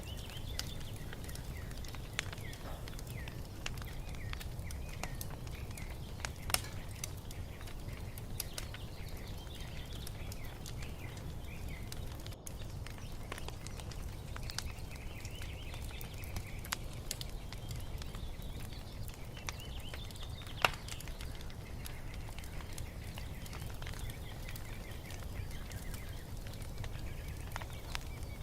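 Wood fire crackling, with scattered sharp pops over a low steady rumble; one pop about two-thirds of the way through is the loudest. Small birds chirp and sing at intervals.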